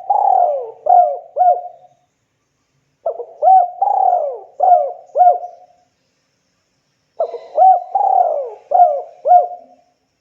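Spotted dove (tekukur) cooing in repeated phrases about every four seconds. Each phrase is a few short notes, a longer coo that slides down, then two quick short notes.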